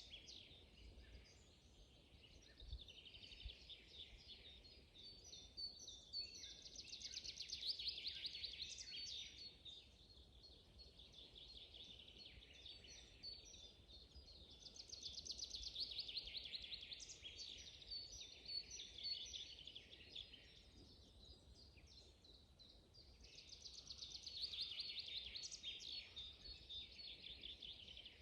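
Songbirds singing in a spring forest: long phrases of rapid trilling notes that come back about every eight to nine seconds, with fainter chirps in between.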